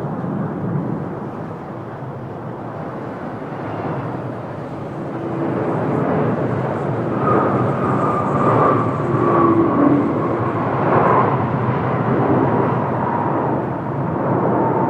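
Jet engines of a landing Boeing 777-300 airliner, a steady rush that swells about midway, with a high whine that slowly falls in pitch through the second half.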